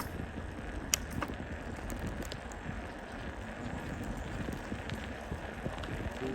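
A folding bicycle being ridden, with steady rolling and wind noise. A couple of sharp clicks or rattles come about a second in.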